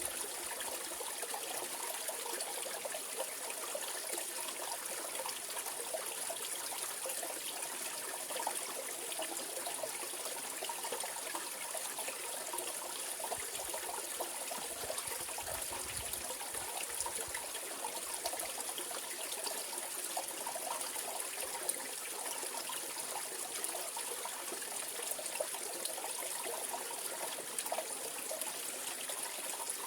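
Mountain valley stream flowing over rocks, a steady babbling and splashing rush of water.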